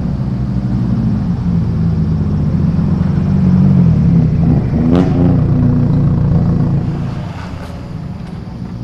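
Engines of modified cars rolling out at low revs with a deep, loud exhaust note that swells and then fades after about seven seconds as they pull away. A sharp click about five seconds in comes with a brief rev.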